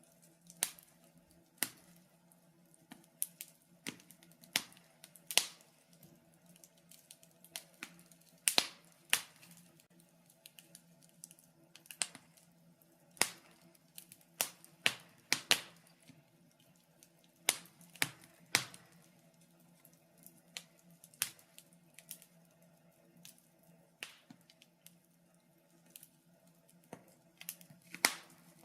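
Wood fire crackling, with sharp irregular pops about once a second, some much louder than others, over a faint steady hum.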